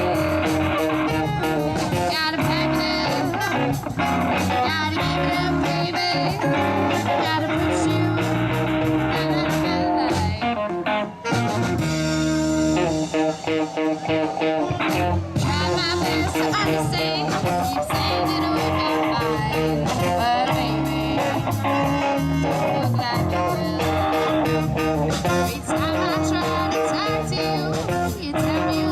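Live blues-rock band playing: electric guitars, bass and drums, with some singing. The band has saxophone and electric guitars, bass and drums, with a singer.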